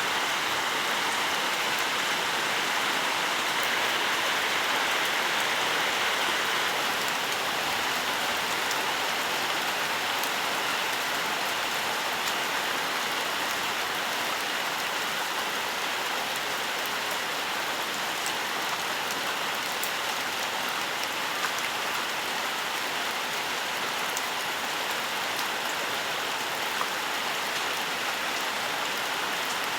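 Steady rainfall: an even hiss of rain with fine patter of drops, and a couple of slightly sharper drop ticks in the second half.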